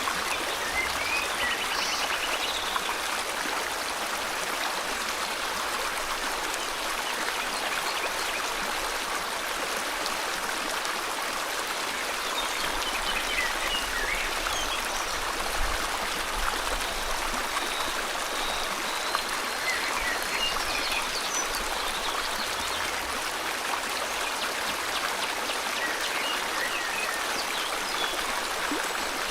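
River water flowing steadily, with faint bird chirps scattered over it, including a short rapid trill near the start and a few more calls later.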